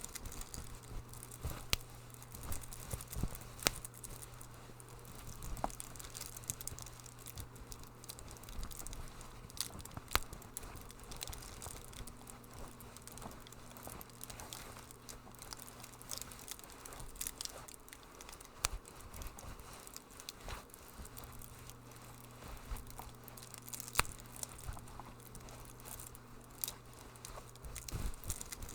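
Wood fire crackling in a fireplace, with irregular sharp pops and snaps over a soft low rumble.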